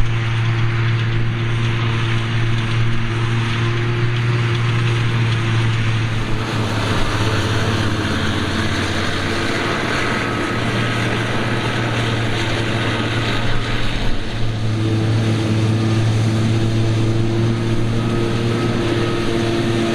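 Claas Jaguar 870 self-propelled forage harvester running steadily while chopping grass, a loud constant engine and machinery drone with a deep hum. The hum eases slightly about a third of the way in and comes back stronger about three-quarters through.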